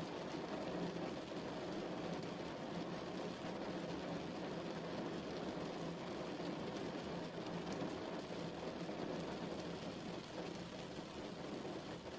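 Steady rain falling, an even hiss weighted toward the low and middle range without separate drop impacts.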